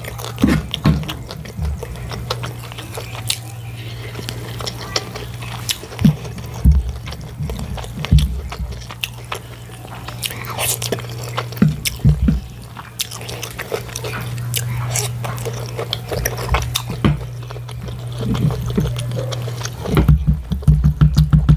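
Close-miked chewing and wet mouth sounds of rice with tomato stew and chicken being eaten, with many short smacks and clicks and a quick flurry of them near the end, over a steady low hum.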